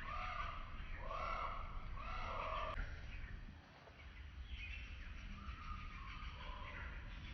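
A bird calling in a series of short, arched calls: three loud ones in the first three seconds, then fainter ones later. A steady low rumble runs beneath.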